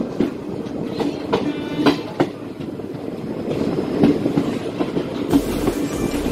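Express passenger train running through a station without stopping, its wheels clattering over the rail joints under a steady drone. A deeper rumble sets in about five seconds in.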